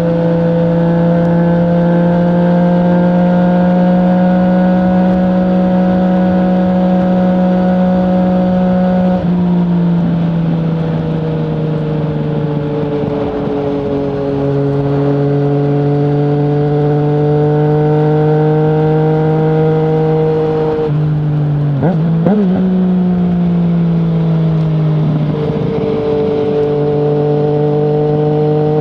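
A 2020 Yamaha MT-09's three-cylinder engine running through an Akrapovic full exhaust system with no dB killer, riding at steady road speed with the revs gently climbing and easing. The engine note steps down and back up a few times, at about 9, 14, 21 and 25 seconds in, with a brief clatter about 22 seconds in.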